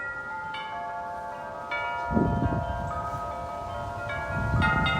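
Wind chimes ringing in strong wind, several clusters of strikes whose tones ring on and overlap. A low rush of wind on the microphone comes in about halfway through and builds into a loud gust near the end.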